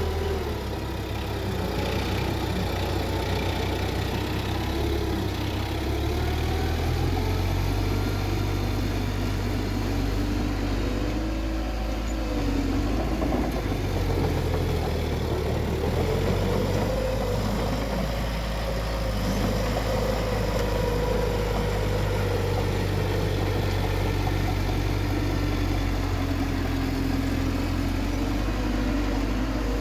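Heavy diesel engine of earthmoving machinery running steadily under load, with a low rumble and a higher whine that rises and falls in pitch.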